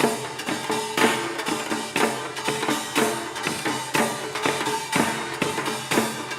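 Korean pungmul percussion ensemble playing drums and small brass gongs, with a strong accented beat about once a second and quicker strokes between, over ringing metallic tones.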